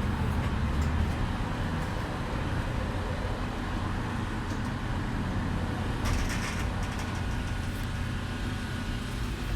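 Steady low rumble of background noise, with a brief rustle about six seconds in.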